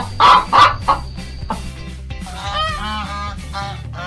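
Domestic hen clucking, three loud clucks in the first second, then a quick run of higher, rising-and-falling cackling calls, over a soft background music bed.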